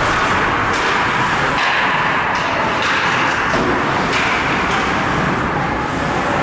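Steady, loud noise from a game in progress, with a few sharp knocks or thuds.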